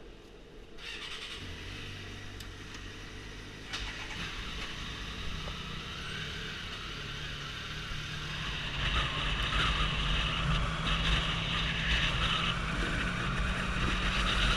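Triumph Sprint ST 1050's three-cylinder engine running under way and picking up speed, with wind noise rising as it goes. The sound starts about a second in and grows steadily louder.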